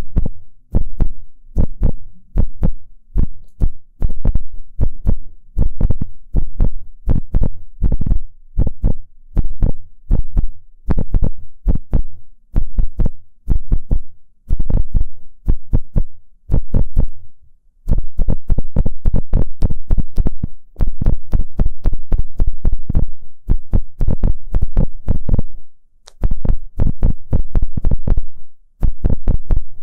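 Ear-cleaning ASMR: an ear-pick tip scratching and rubbing right on a binaural microphone's ear, in repeated strokes about two a second. Past the middle the strokes run together into quicker, continuous scratching for several seconds, with brief pauses near the end.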